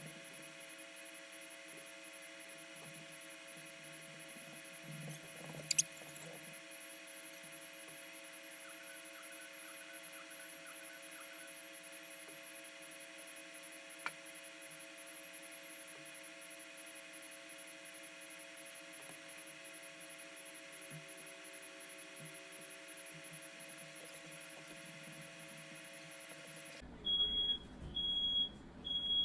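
A steady, faint hum made of several held tones with a couple of small clicks, then near the end a smoke alarm sounding its loud, high-pitched beeps, three short beeps about a second apart, set off by smoke from a firework fire in the house.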